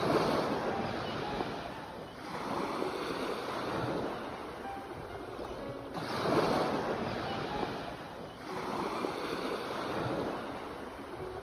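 Ocean waves breaking and washing up a shore, one surge every two to four seconds, four in all, the first and third the loudest.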